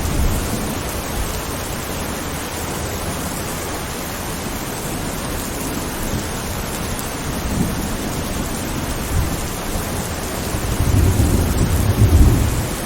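Steady rain hissing, with low rolls of thunder. A longer, louder rumble of thunder builds near the end.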